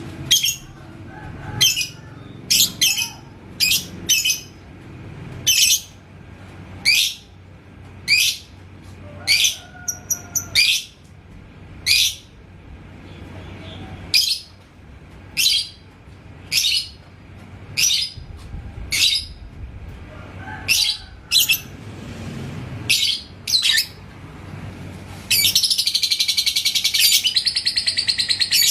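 Yellow labet lovebird giving sharp, high single chirps roughly once a second, then breaking into ngekek, a fast, continuous chattering trill, about three seconds before the end.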